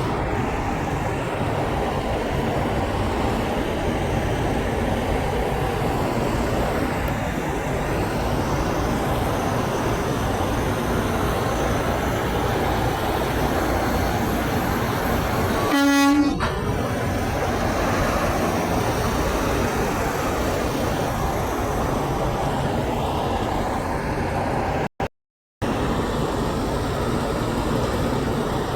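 Steady rumble of heavy road traffic, with one short blast of a semi truck's air horn about halfway through. The sound drops out for a moment near the end.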